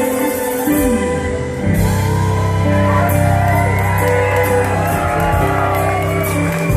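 Live band playing with long held notes over a steady bass, with shouts and whoops from the audience.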